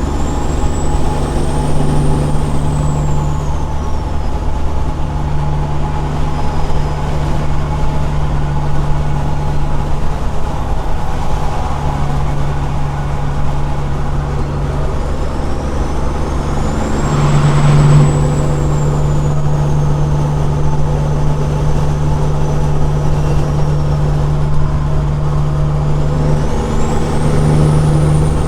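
Straight-piped Caterpillar 6NZ (C15) diesel engine in a semi truck, running steadily under way with a deep even drone. A high whistle rises and falls a few times above it, and the engine gets briefly louder about two thirds of the way in.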